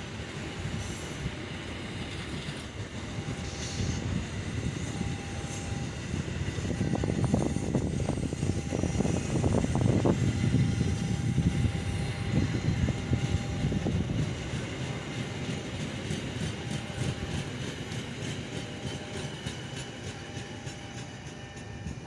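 Passenger train rolling past, its wheels clattering over the rails, swelling to its loudest about 7 to 12 seconds in and then easing off.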